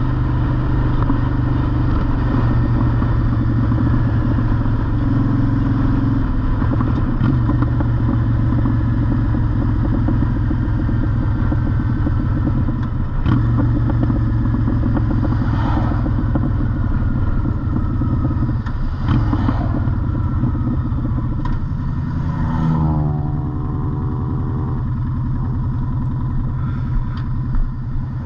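Honda Shadow V-twin motorcycle engine running steadily at cruising speed, with wind rushing over the microphone. About three-quarters of the way through, the engine note falls and settles lower as the bike slows.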